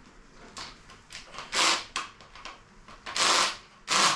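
Shop handling noises from work on an engine: a few short scrapes, the longest near the end, then a sharp knock right at the end.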